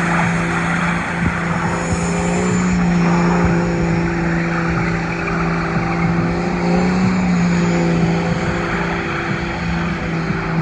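Turbocharged truck engine held at high, steady revs during a burnout, its note dipping only slightly, over the rushing hiss of spinning tyres.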